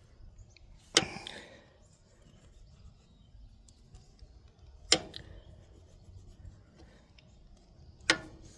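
Three sharp tool clicks a few seconds apart, each with a brief ring after it: hand tools at work on the rocker arms while the valve lash is set on an Allis-Chalmers 7010 tractor's inline-six engine.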